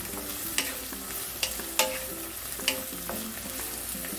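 Diced onion and garlic sizzling in hot oil in a nonstick wok, stirred with a wooden spatula that knocks against the pan a few times.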